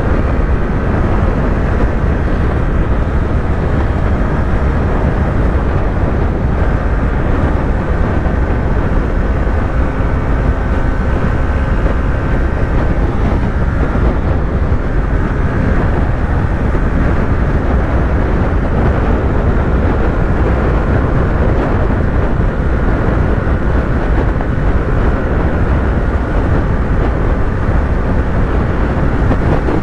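Yamaha YZF-R3's parallel-twin engine running steadily at highway cruising speed, with no revving or gear changes, under a constant rush of wind noise.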